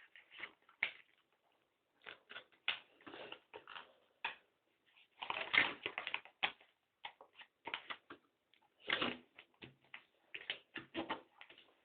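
Sheet of paper being handled and folded, rustling and crinkling in irregular bursts with short pauses between them.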